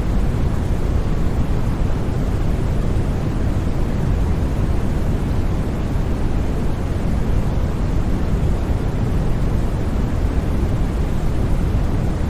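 Steady, unchanging white noise from a sleep-sound track, heaviest at the low end so it sounds deep and rushing rather than hissy, with no breaks or sudden sounds.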